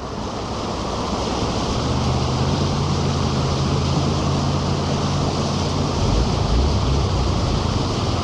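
Heavy rain pouring down with rushing floodwater, a steady dense wash of noise with wind on the microphone. A low steady hum runs underneath for a few seconds in the middle, followed by a low rumble.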